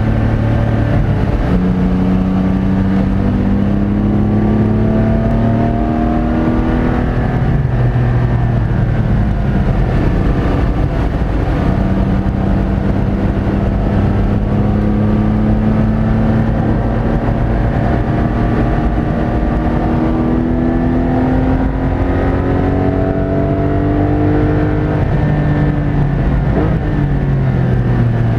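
Porsche 718 Cayman GT4's naturally aspirated 4.0-litre flat-six under hard acceleration on track, heard from inside the cabin. The engine note climbs steadily in pitch, drops about a quarter of the way in, then climbs again in one long pull before falling near the end.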